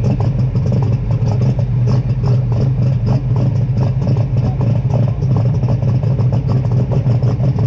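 Superstock pulling tractor's diesel engine running steadily and loudly at a constant speed, with a rough, clattery knock over a deep hum.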